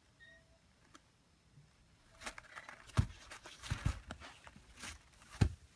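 African grey parrot chick scrambling about. After a quiet start come irregular scuffs and knocks, with a few sharper thumps.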